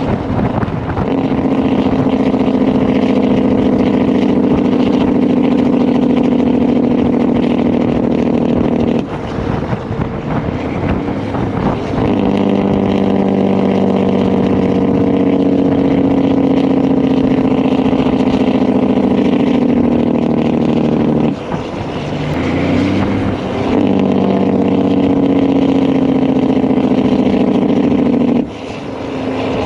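Straight-piped Caterpillar C10 diesel of a Peterbilt 362 cabover truck pulling under load, muffler removed, with a steady droning note. The sound drops away briefly about 9, 21 and 28 seconds in, then picks up again, as between gear changes.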